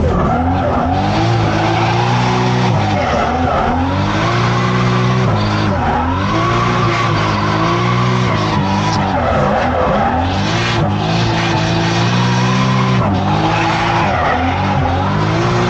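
Toyota Chaser's turbocharged JZ straight-six in a drift run, revving up and dropping back again and again as the throttle is worked, with tyres skidding on tarmac, heard from inside the cabin.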